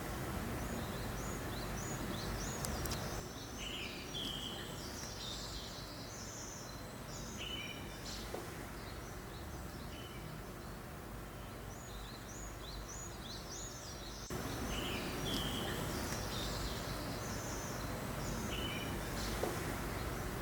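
Steady breeze hiss in a forest with small songbirds chirping in short, repeated calls throughout. The background noise drops a few seconds in and comes back up about two-thirds of the way through.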